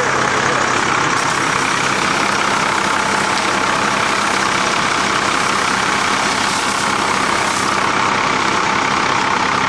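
Fire engine running steadily at a constant speed, a low hum under a steady loud hiss, as it pumps water for the wetting down of a new truck.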